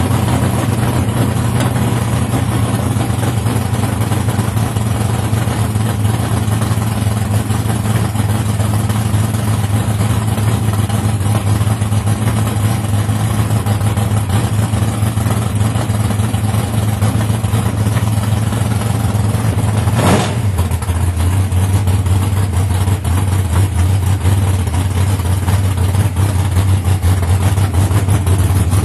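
Drag race car engine idling loudly and steadily. About twenty seconds in there is a sharp click, and the idle settles to a slightly lower pitch.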